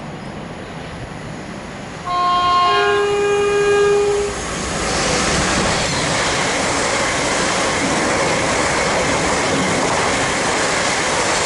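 Class 345 Elizabeth line train sounding its two-tone horn about two seconds in, a short higher note then a longer lower one, which the spotter takes as a warning to people standing past the yellow line. The train then runs through the station at speed with a steady loud rushing noise.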